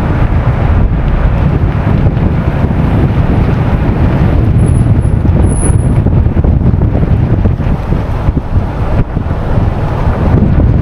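Steady low rumble of a heavy van driving along a road: engine and tyre noise.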